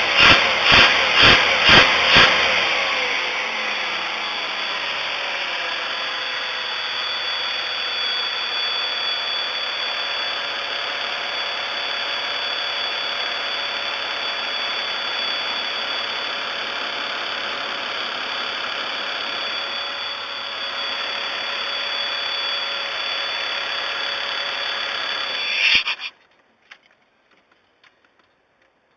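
1994 Chevy Astro's 4.3 L V6 cranking on the starter for about two seconds, catching, and running steadily with a constant high-pitched whine, then shut off abruptly about 26 seconds in.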